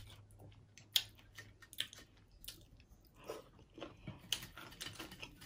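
Close-up chewing and biting of crunchy taco salad with broken taco shell pieces and Cheetos: soft, irregular crunches about once or twice a second.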